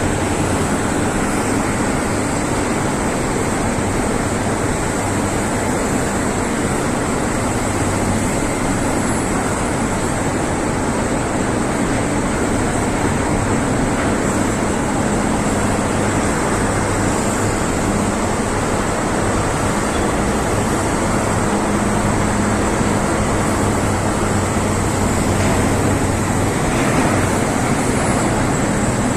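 Excavator's diesel engine running steadily under a constant industrial roar, with a thin high-pitched whine held throughout.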